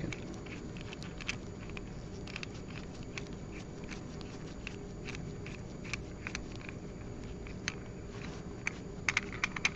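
Faint scattered clicks and light handling of a diamond anvil cell as its fine-threaded knurled ring is turned off by gloved hands, with a quick run of sharper clicks near the end. A steady low room hum runs underneath.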